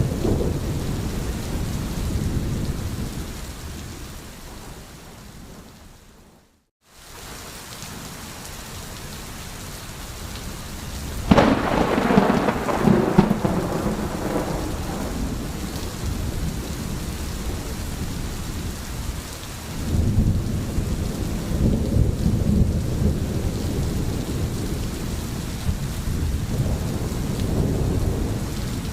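Rain falling steadily through a thunderstorm. A rumble of thunder fades away over the first few seconds, and the sound cuts out briefly about six seconds in. A sudden sharp thunderclap about eleven seconds in rolls on for several seconds, and another long low rumble swells around twenty seconds in.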